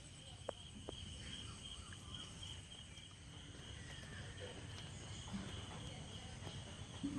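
Steady high-pitched insect chirring, like crickets, over a low background rumble, with a couple of faint clicks about half a second and a second in.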